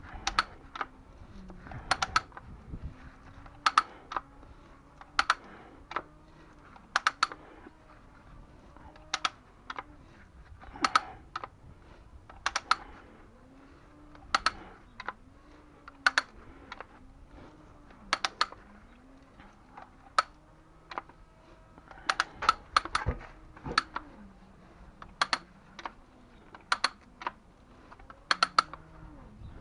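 Sharp clicks, singly and in quick twos and threes, about every second or two.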